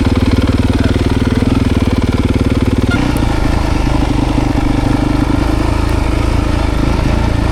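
Dirt bike engine running steadily at low revs. About three seconds in there is a sharp click and the engine note changes.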